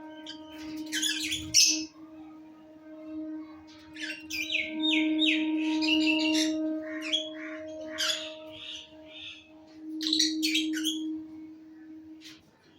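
Lovebirds chirping and squawking in quick clusters of short, sharp calls, about a second in, through the middle and again near the end. Under them runs a steady held tone from background music.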